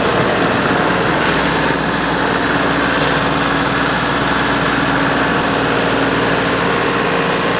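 Diesel engine of a John Deere 3046R compact tractor running steadily at an even pitch.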